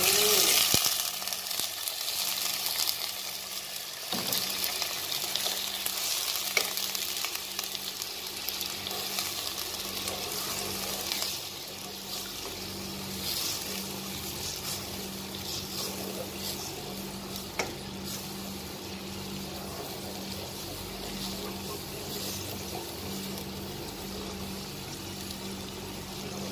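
Coconut milk poured into a hot pot of sautéed onions, ginger and chilli hisses loudly as it hits the pan, then keeps up a steady sizzle while a wooden spoon stirs and scrapes through it. The sizzle grows quieter about eleven seconds in as the liquid heats through.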